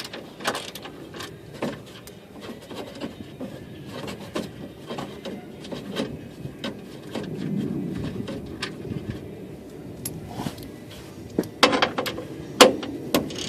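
Scattered clicks, knocks and rattles of hand tools and plastic trim being handled while working under a car, with a few sharp clacks near the end.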